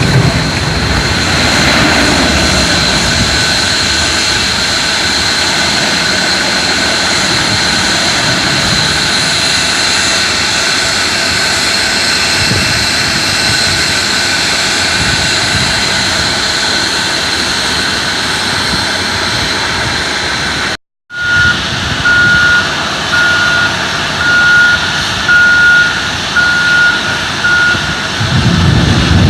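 Heavy truck engine running steadily at a loud level with a high whine. After a short break about two-thirds of the way through, a reversing alarm beeps about once a second over the running engine.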